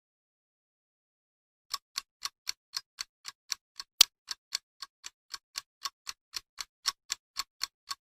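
Clock-ticking sound effect: rapid, even ticks about four a second, starting nearly two seconds in, with one louder tick about four seconds in.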